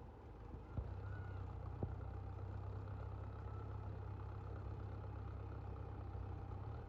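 An engine running with a low, steady hum. Two faint clicks come about one and two seconds in.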